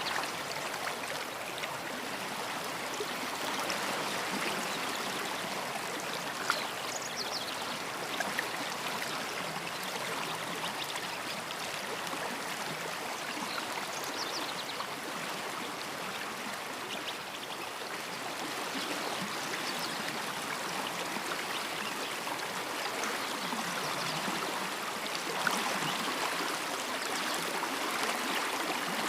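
A stream running steadily over rocks, with a few brief, faint songbird chirps above it, near the start and again a few times in the first half.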